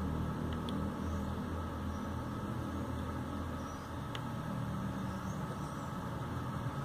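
Steady low hum of background noise, with a few faint clicks as the car stereo's rotary knob is pressed and turned.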